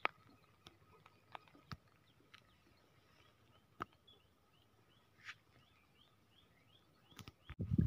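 Faint outdoor ambience: a bird calls in short falling chirps, about two or three a second, through the second half, over a faint steady high tone. Scattered light clicks and taps run throughout, and a burst of louder rustling starts just before the end.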